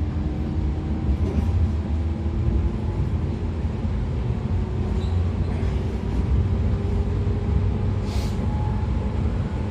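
Running sound inside a JR 113 series electric train's motor car: the MT54 DC series-wound traction motors and gears whine under the floor over a steady rumble of wheels on rail. The whine rises slowly in pitch as the train gathers speed, with a short hiss about eight seconds in.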